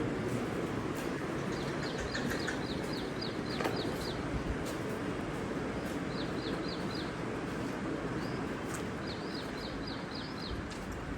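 Small birds chirping in quick runs of short, repeated notes, three runs in all, over a steady rushing background noise.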